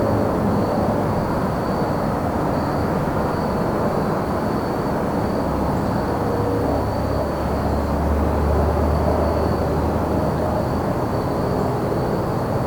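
Crickets trilling steadily in one high, even tone over a loud, low, continuous rumble that swells for a few seconds in the middle.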